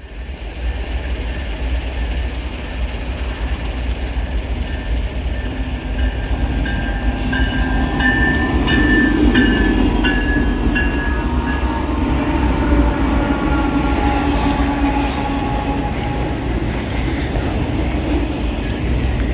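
Freight train rolling past with a steady, heavy low rumble. High squealing tones rise and fall for several seconds around the middle, with scattered sharp clicks.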